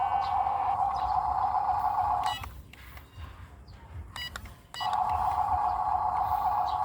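A loud, steady buzz that cuts out abruptly about two seconds in and comes back about two and a half seconds later, with a few short beeps sounding in the gap.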